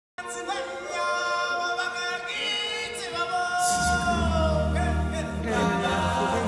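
Music with a choir singing long held notes; a heavy low bass comes in a little past halfway.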